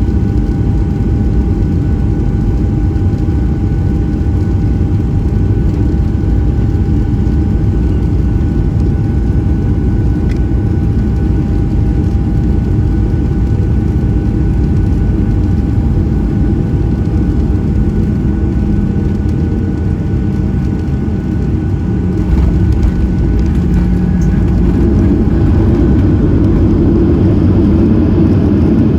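Cabin noise of a Boeing 737-700 with CFM56-7B engines: steady loud engine and air noise with two thin steady whine tones, growing louder about three-quarters of the way through.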